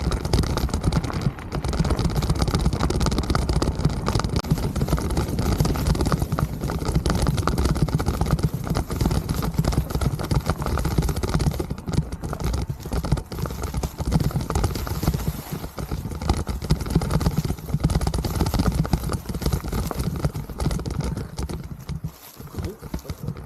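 Wind buffeting the mountain bike's camera microphone, with tyre noise and quick rattling knocks of the bike over rough trail; it gets quieter near the end.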